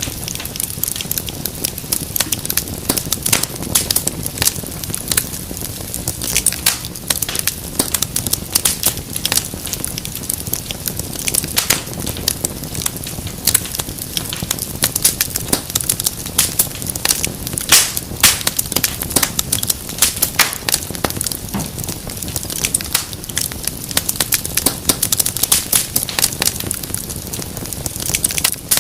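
Fireplace fire crackling steadily, with frequent sharp pops and snaps over a low rush of flame.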